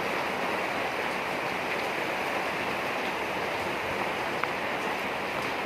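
Steady rain falling: a dense, even hiss with a few faint ticks of single drops.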